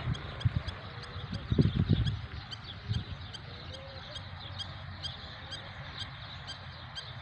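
A small creature chirping: short high-pitched chirps in a steady rhythm of about four a second, with a few low thumps about one and a half to two seconds in.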